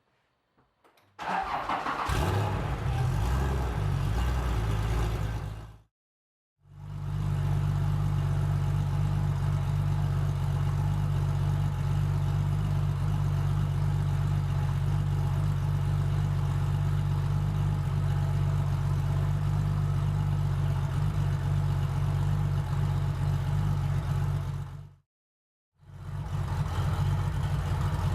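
A vehicle engine starts about a second in and then idles steadily. The sound cuts out twice for a moment.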